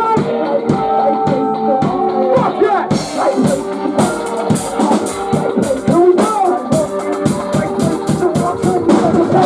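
Post-hardcore band playing live, with guitars and a drum kit. About three seconds in, the cymbals come in hard and keep crashing.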